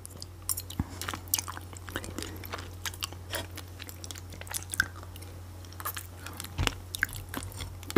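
A person chewing food close to the microphone, with irregular small wet clicks and smacks, over a steady low hum.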